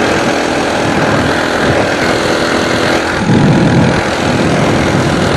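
Coleman BT200X mini bike's small single-cylinder four-stroke engine running steadily under way, buzzy. Wind rumbles on the microphone, with a louder low rush a little over three seconds in.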